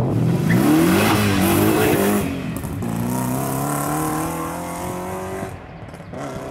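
BMW E30 with a swapped-in 4.4-litre M60 V8 accelerating, its engine note climbing for about two seconds; then a second, quieter pull rises and fades away.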